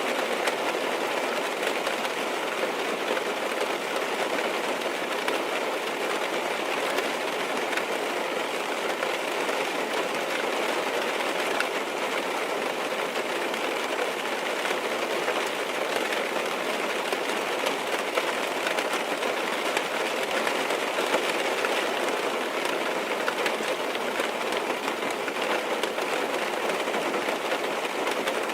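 Steady rain tapping on a car's roof and windows, heard from inside the car: a dense, even patter with no lulls.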